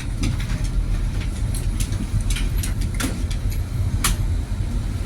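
Passenger train running, a steady low rumble with scattered clicks and rattles throughout.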